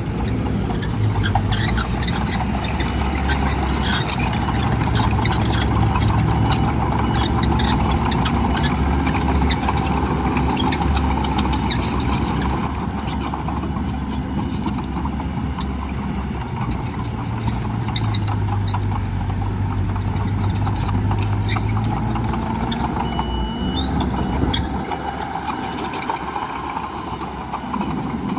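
Heavy diesel earthmoving machinery running steadily, its engine note growing stronger for a few seconds at times, with scattered knocks and rattles.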